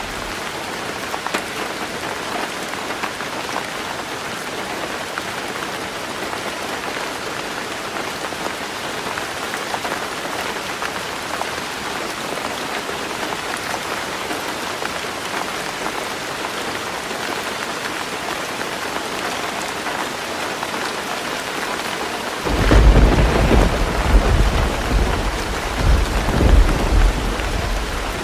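Heavy rain falling steadily on a roof. Near the end a thunder rumble breaks in suddenly, deep and rolling, and lasts several seconds.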